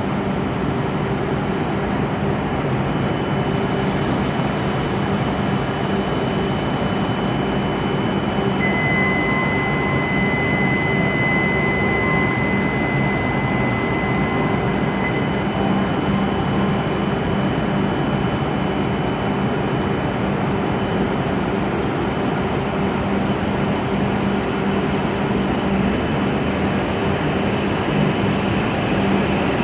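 W7-series Shinkansen train standing at the platform, its onboard equipment giving a steady hum. About a third of the way in, a steady high beep sounds for about six seconds.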